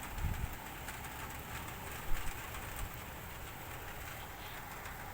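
A pigeon cooing low over a steady outdoor hiss, with a couple of sharp little knocks about two seconds in.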